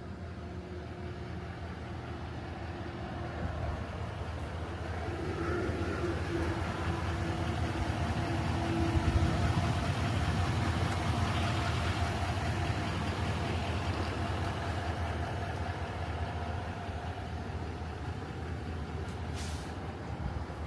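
Vehicle engine running with a steady low rumble that swells about a third of the way in and slowly eases off, with a short hiss near the end.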